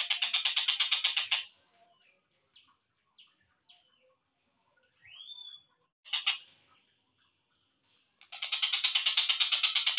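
Kingfisher (tengkek buto) calls, slowed down: a fast rattling series of harsh repeated notes, then a few scattered short notes and one rising-then-falling call. A long rattling series starts again near the end.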